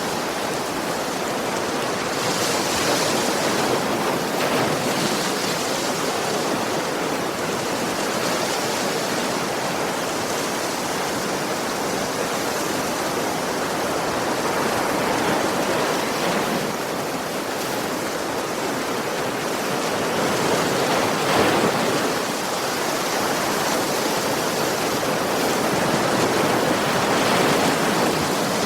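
Sea waves washing onto a shore: a steady rush of surf that swells gently now and then as waves break.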